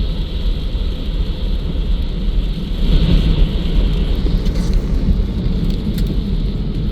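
Car driving, heard from inside the cabin: a steady low road and engine rumble that swells briefly about three seconds in.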